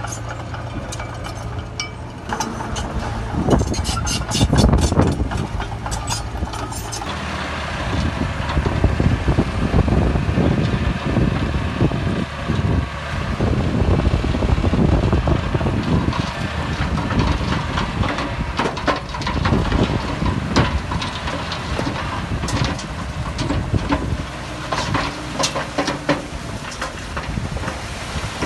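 Heavy diesel earthmoving machinery working: a steady engine rumble that grows louder about seven seconds in, with repeated metallic clanks and knocks over it.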